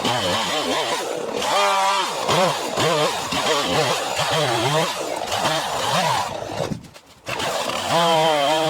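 Poulan Pro 5020 two-stroke chainsaw running, its engine pitch rising and falling over and over as the throttle and cutting load change. The sound briefly drops away a little before the end, then comes back at full speed.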